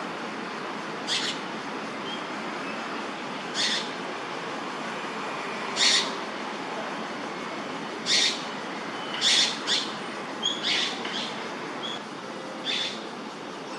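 A bird gives about eight short raspy calls at uneven intervals over a steady background hiss.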